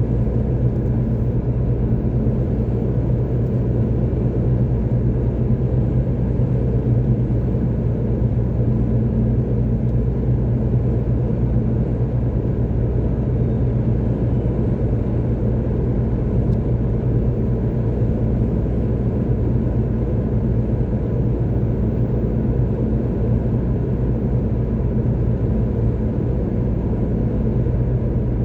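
Steady low rumble of a car driving along a motorway: engine and tyre noise with no change in pace.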